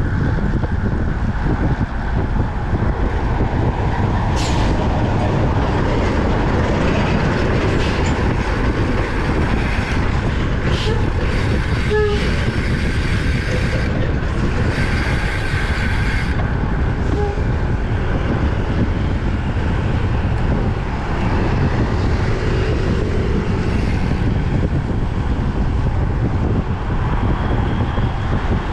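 Wind buffeting the microphone of a camera riding on a road bike at speed: a loud, steady low rumble, with a few brief hissing sounds, the longest about halfway through.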